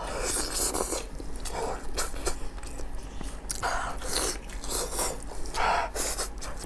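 Close-miked eating: a woman biting into and chewing a sauce-soaked stuffed intestine sausage with wet, irregular chewing sounds. The louder bites come about half a second in, around four seconds and near six seconds.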